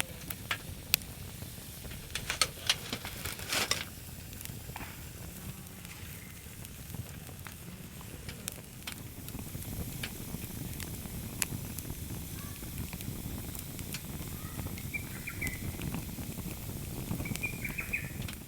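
Wood fire burning in a fire pit, crackling with sharp pops that come thickest in the first four seconds, over a low steady rumble.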